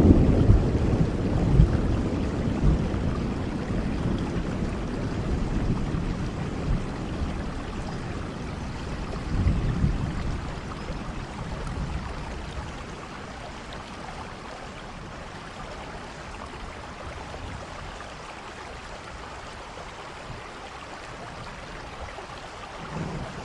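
Steady rain falling, with a low rumble of thunder dying away over the first several seconds, a brief rumble about ten seconds in, and thunder starting to rise again right at the end.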